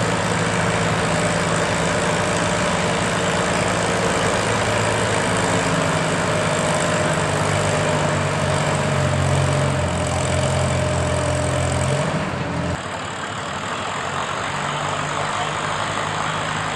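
Tractor engine running steadily. About two-thirds of the way through, the sound changes abruptly to a somewhat quieter engine.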